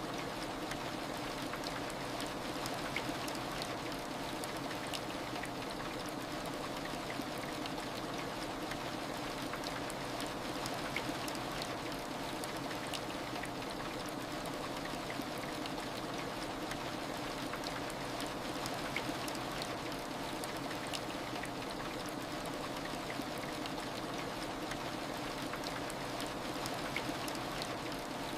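Steady heavy rain falling, an even hiss with scattered single drops ticking out above it.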